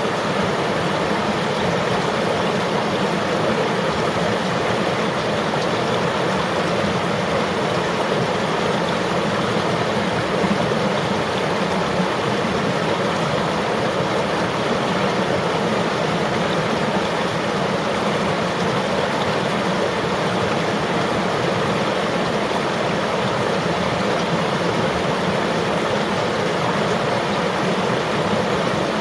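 River water flowing and rushing over stones, a steady full-bodied rush without breaks.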